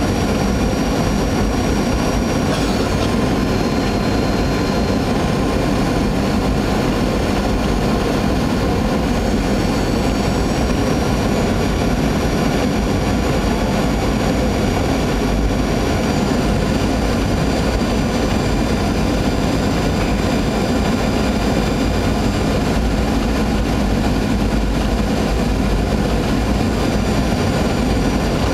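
Steady cabin noise of a Boeing jet airliner in flight: a constant rush of engine and airflow noise that does not change.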